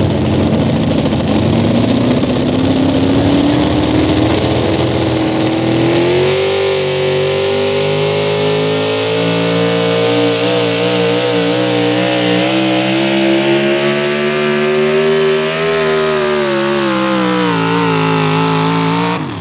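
Pro stock four-wheel-drive pulling truck's engine at full throttle under load, pitch climbing over the first several seconds, then holding high and wavering, sagging slightly before it stops abruptly near the end.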